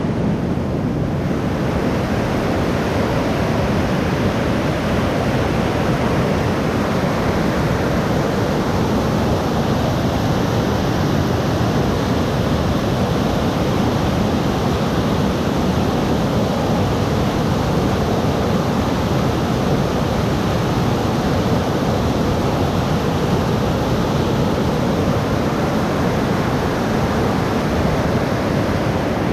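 Rain falling steadily, an even dense hiss.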